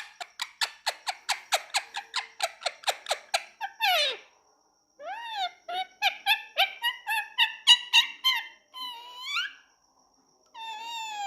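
Indian ringneck parakeet calling. First comes a fast run of sharp squawks, about five a second for three seconds, ending in one long falling squawk. After a short pause comes a run of quick chirping notes, and then a few drawn-out rising squawks.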